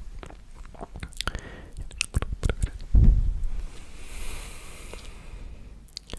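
Close-miked ASMR mouth sounds: scattered wet clicks and smacks, then a low thump about three seconds in, followed by a soft, airy breathy hiss.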